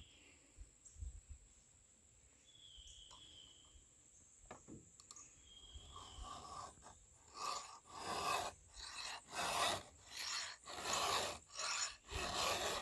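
Chainsaw chain being sharpened with a hand file: a run of rasping file strokes across a cutter, a little faster than one a second, starting about halfway in and growing louder.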